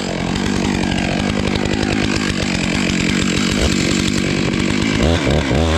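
Chainsaw running under load as it cuts into a tree trunk during felling, with a steady engine note that swings up and down in pitch near the end.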